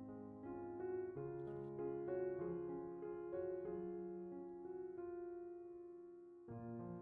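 Background piano music: a slow, gentle melody of held notes over low chords, with a new chord coming in near the end.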